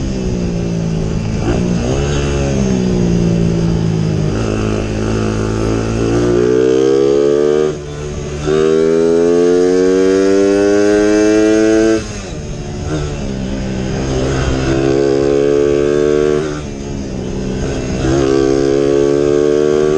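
Motorcycle engine running hard at speed, its pitch climbing in long pulls and dropping sharply about three times as the throttle is eased or a gear is changed.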